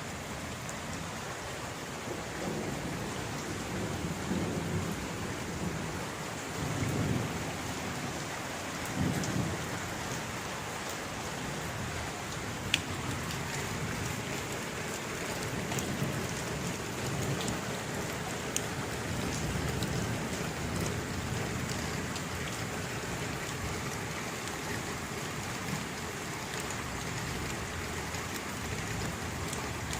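Steady rain falling, a continuous hiss with scattered sharp drop ticks, and low rumbles of distant thunder swelling several times.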